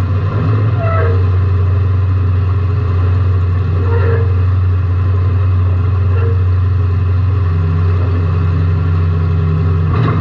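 Car engine running steadily, heard from inside the cabin as a loud, even low drone. A few short faint sounds come over it about one, four and six seconds in.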